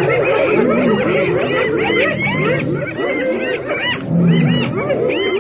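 Many small animals calling at once: a dense chorus of high-pitched, overlapping chirps that rise and fall.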